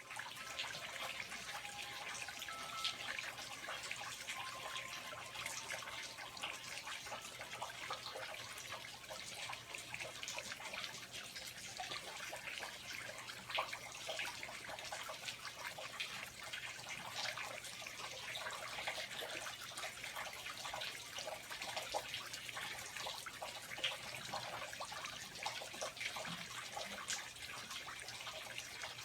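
Water dripping and trickling in a rainforest: a steady dense patter of many small, irregular drops.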